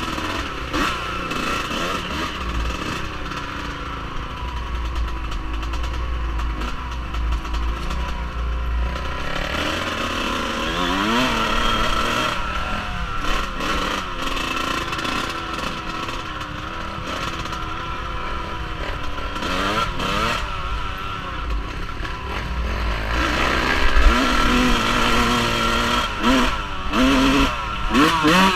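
Off-road vehicle engine running under way, revving up and down repeatedly as the rider works the throttle, with wind buffeting the microphone.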